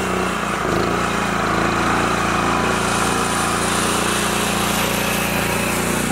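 Small tractor engine running steadily, with a slight change in its note about half a second in.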